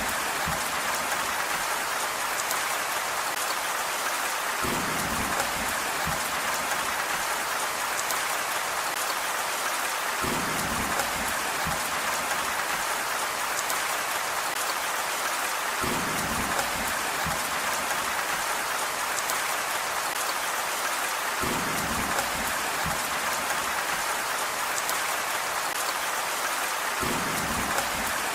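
Steady heavy rain hiss, with a short low rumble that comes back at even intervals about every five and a half seconds, five times.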